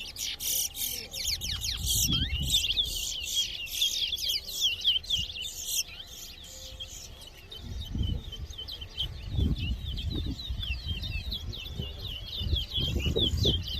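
Towa-towa (chestnut-bellied seed finch) singing in a long run of quick, short, sliding whistled notes, a competition song being counted; louder and fuller in the first half. A low rumble sits under the second half.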